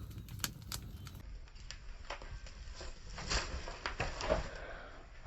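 Faint, irregular crackling and ticking of a wood fire on which a chicken is being singed and roasted.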